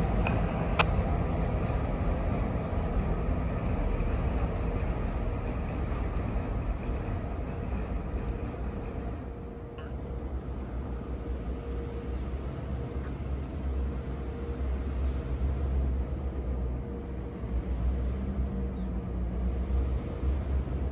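Diesel freight train moving slowly on the track: a steady low locomotive engine rumble with rolling railcar noise and a faint steady tone, and one sharp click about a second in.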